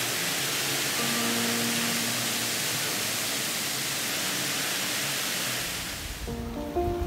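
Steady hiss of heavy rain falling, with faint background music notes. About six seconds in the hiss drops away and a low rumble of wind on the microphone comes in.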